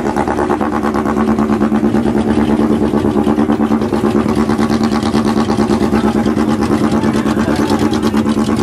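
A car engine idling close by: a steady, loud drone with a fast, even pulsing beat.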